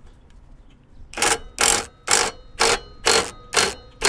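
Socket ratchet wrench being cranked back and forth, clicking in quick strokes about twice a second from about a second in, backing out the last mower deck spindle bolt.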